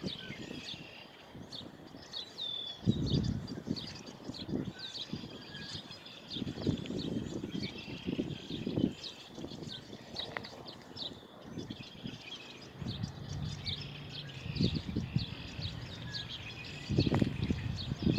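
Many small birds chirping in quick, short, high calls throughout. Low, dull bursts of noise break in now and then, loudest near the end.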